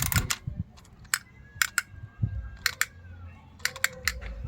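Scattered sharp clicks and taps, several in quick pairs or threes, from small plastic toys being handled.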